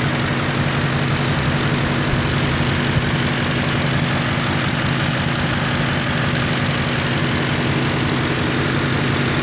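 Audi A8 4E's 4.2-litre petrol V8 (BFM) idling steadily, with no revving.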